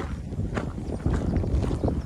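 Footsteps at a walking pace on a hard path, about two steps a second, with wind rumbling on the microphone.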